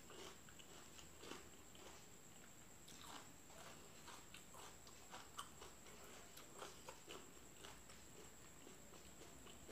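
Faint mouth sounds of a person chewing fried chicken with her mouth closed: soft, wet clicks and smacks, scattered unevenly about once or twice a second. A thin, steady high whine sits underneath.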